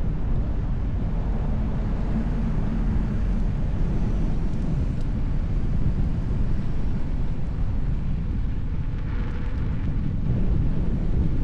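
Wind buffeting the microphone as a steady low rumble while riding an electric unicycle.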